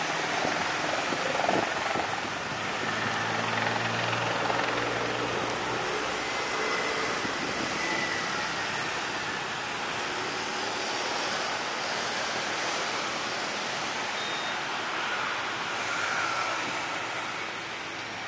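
Aircraft engine noise heard through heavy wind on the microphone, a steady rushing sound with a faint high whine coming and going.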